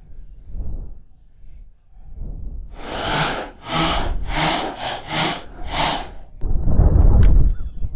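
A rope being pulled out hand over hand, five even rasping strokes about 0.7 s apart, then a loud low rumble near the end.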